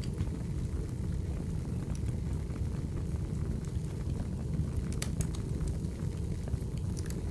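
Wood fire burning: a steady low rumble with scattered sharp crackles and pops, a few of them closer together about five seconds in and again near the end.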